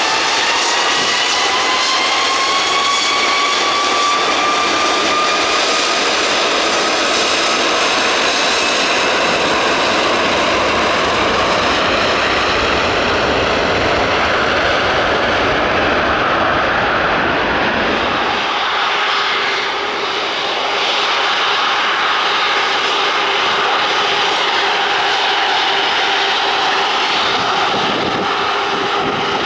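Jet engines of an Airbus A330-243 (Rolls-Royce Trent 700) at takeoff thrust: high whines rise in pitch over the first several seconds, over dense jet noise with a deep rumble. About two-thirds through, the rumble drops away and a second A330's engines carry on with a steady lower hum.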